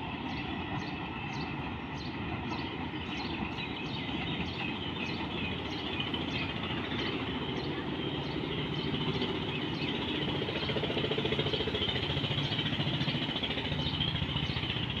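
Steady low rumble of a freight train running along the line, growing a little louder in the second half. Over it, a short high chirp repeats about twice a second, typical of a bird calling.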